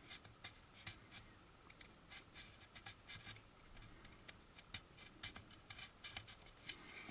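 Faint, irregular short scraping strokes of a small needle file worked along a seam in a plastic model part.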